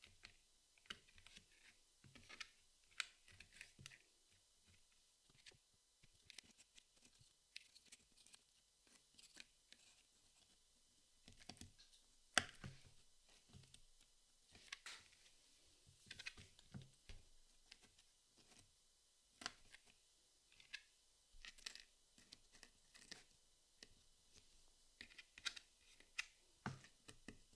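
Puzzle pieces being handled and set down: irregular light clicks and taps with soft scratching. The sharpest clicks come about twelve and fifteen seconds in.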